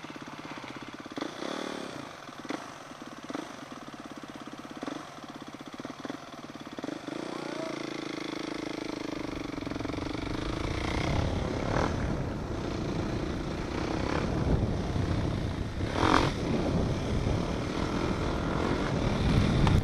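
An engine running steadily, then picking up speed about seven seconds in, with a growing low rumble of wind or road noise that gets louder toward the end.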